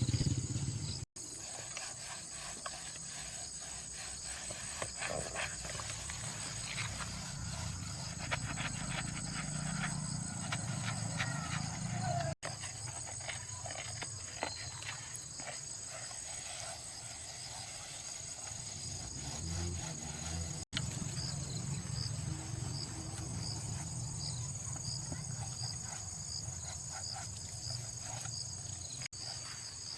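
Insects chirping steadily, with a pulsing chirp about once a second in the second half, and scattered clicks and taps in between. A small engine dies away at the very start.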